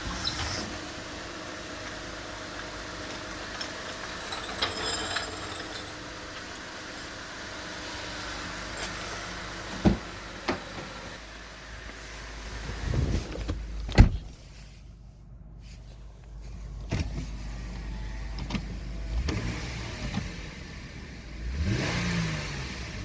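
2006 Lexus GS300's V6 engine and exhaust running, with a sharp knock about ten seconds in and a louder one about fourteen seconds in, then the engine note rising as it revs up near the end.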